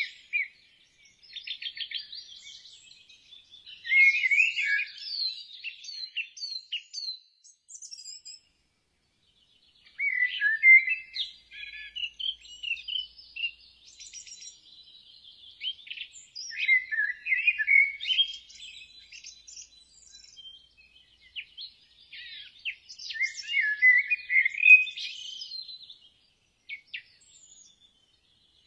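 Birds chirping and singing in bouts of quick high trills and sweeping notes, with a brief complete silence about eight seconds in.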